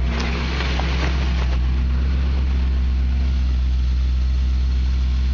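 Off-road vehicle's engine running at steady low idle revs, a deep even drone, as it creeps up to a rock obstacle.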